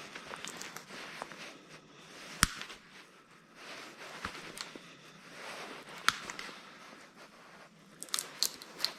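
Hands working at small scrap parts, scraping and rustling, with sharp clicks about two and a half and six seconds in and a quick run of clicks near the end.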